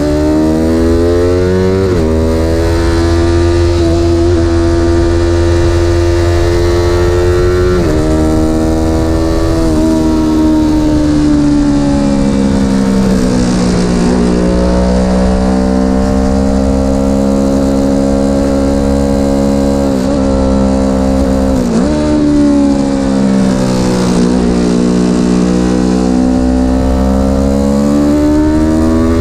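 A vehicle engine under hard load through a track lap. Its pitch climbs steadily, then drops sharply at shifts or lifts, about two seconds in, near eight seconds, and again several times later, over a constant low rumble.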